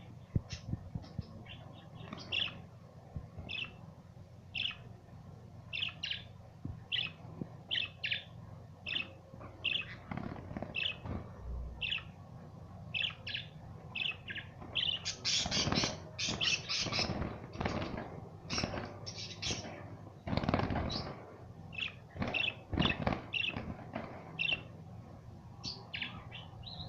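Budgerigars chirping in short, repeated high calls, growing into a busier, louder stretch of chattering around the middle.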